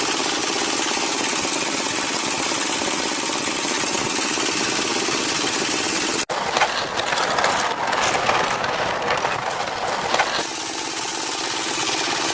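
Mini engine driving a miniature water pump, running steadily. About six seconds in, the sound cuts to a rougher, uneven stretch with irregular crackles for about four seconds, then the steady running returns.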